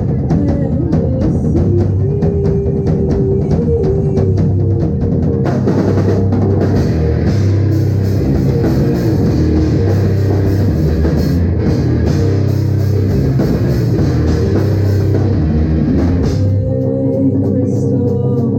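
A live rock band playing loud and heavy, with drum kit, electric guitar and bass. The sound turns brighter and fuller about five seconds in and thins out again near the end.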